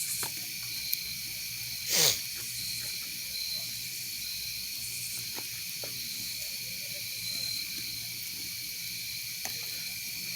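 Crickets trilling steadily over a constant high hiss, with a few faint clicks. A brief, loud falling swish comes about two seconds in.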